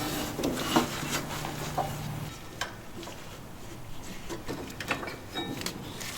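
Scattered clicks and knocks of hand-tool work on a garden tractor, with a low steady hum that stops about two seconds in.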